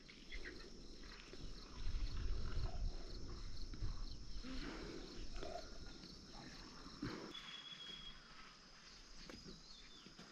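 Steady high-pitched insect chorus, with a low rumble loudest in the first half and a single knock about seven seconds in.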